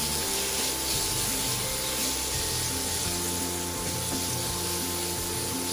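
Ground chicken and roasted red pepper strips sizzling steadily in a hot pan as they are stirred with tongs, over background music.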